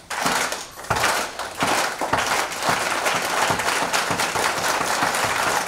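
Crowd doing a rain clap: many people clapping fast and unsynchronised so the claps blend into a dense, steady patter like heavy rainfall. It starts on the count, dips briefly just before a second in, then holds steady.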